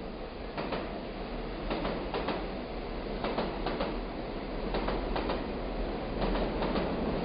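A train running along the track: a steady rumble with repeated, irregular clacks of the wheels over the rail joints.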